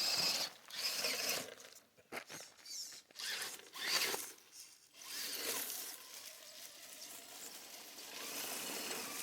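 Electric RC crawler truck's motor and geared drivetrain whirring in short bursts of throttle, then running more steadily and quietly in the second half.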